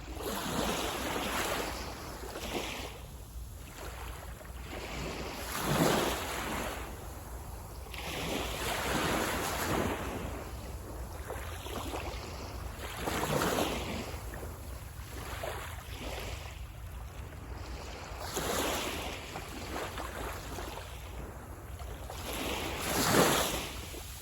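Waves breaking and washing up on the shore, each one a swelling rush of surf that rises and falls every few seconds, with a steady low rumble underneath.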